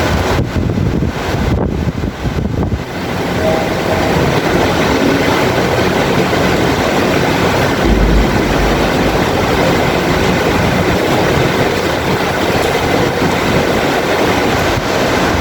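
Heavy rain pouring steadily, with a short low rumble of thunder about eight seconds in.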